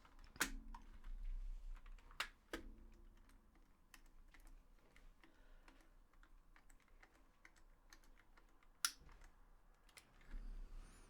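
Small clicks and taps of a DualShock 4 controller's plastic shell and parts being handled during reassembly, with a few sharper clicks in the first three seconds and another about nine seconds in.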